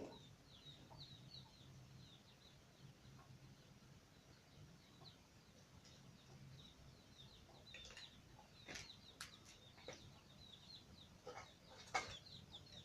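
Faint background of birds chirping, many short falling chirps repeating, over a low steady hum. In the second half a few sharp clicks and knocks, the loudest one about twelve seconds in.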